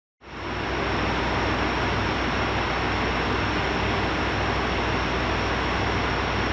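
JR Hokkaido H100 'DECMO' diesel-electric railcar running steadily: its diesel generator set hums low, with a steady high whine on top. The sound cuts in suddenly right at the start.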